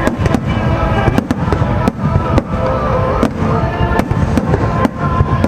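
A fireworks display going off in quick succession: many sharp bangs a second over a continuous low rumble, with music playing alongside.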